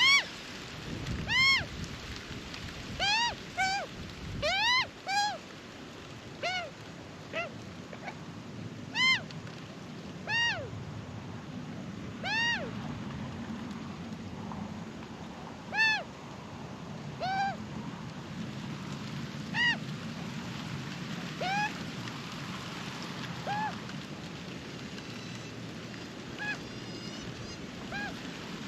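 Young Australian magpie calling over and over, short arched calls every second or two, more closely bunched in the first few seconds and fainter toward the end, over a steady outdoor hiss.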